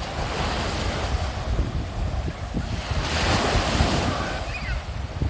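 Surf breaking and washing up a sandy beach, with wind buffeting the microphone in a constant low rumble; one wave washes in louder about three seconds in.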